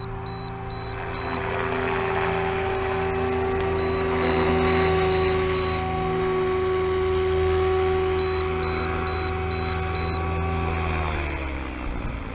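SAB Goblin 500 electric RC helicopter running at a steady head speed, a steady whine from its motor and rotors, then winding down with the pitch falling near the end. Throughout, groups of five quick high-pitched beeps repeat about every four seconds.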